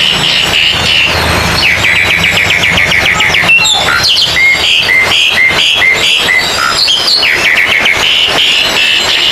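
Oriental magpie-robins singing loudly, several birds' songs overlapping. The notes come in quick repeated runs, with a slower string of separate notes in the middle.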